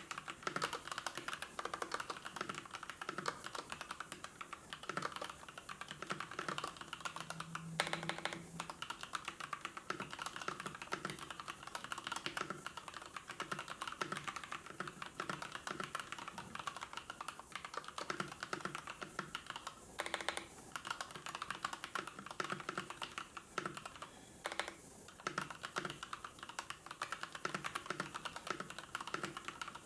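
Continuous fast typing on a computer keyboard, a dense run of key clicks with a few short pauses.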